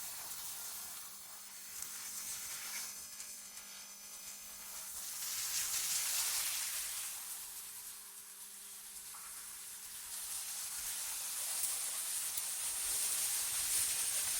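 AI-generated wind ambience: a hissing rush of wind that swells into a gust about six seconds in, eases, and swells again near the end, over a faint steady low hum.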